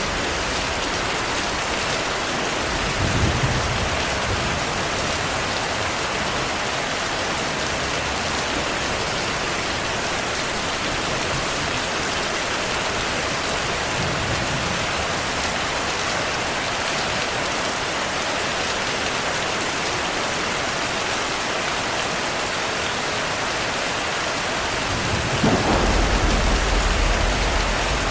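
Steady heavy rainfall with thunder: a short low rumble about three seconds in and a louder, longer rumble near the end.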